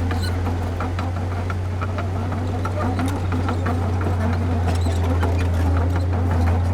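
Diesel engine of heavy earthmoving machinery running steadily with a deep hum, with scattered metallic clicks and clanks throughout.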